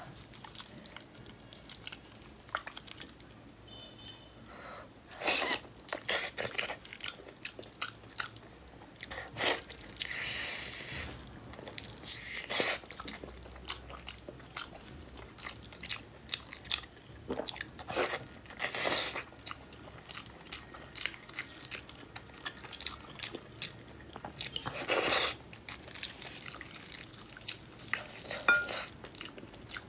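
Close-up chewing and biting of braised pork in sauce, with irregular mouth noises and several louder bites spread through.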